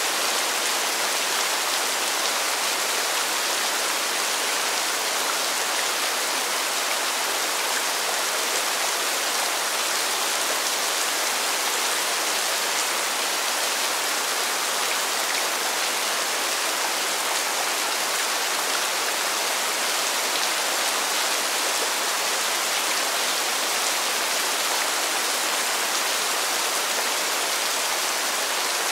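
Rain falling steadily: an even hiss that does not change.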